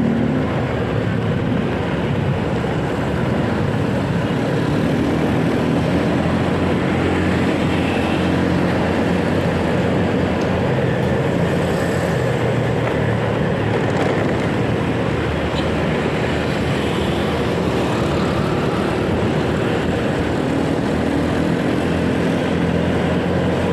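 Motorcycle engine running steadily while riding in city traffic, with a constant rush of wind and road noise over the microphone.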